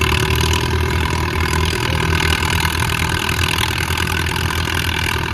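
Allis-Chalmers WD45 tractor engine running steadily under load while it pulls a weight sled down the track.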